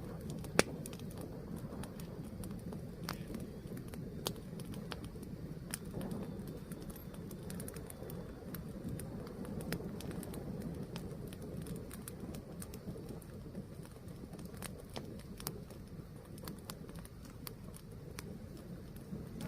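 Fire burning with a steady low rush and irregular sharp crackles and pops, one loud pop just after the start.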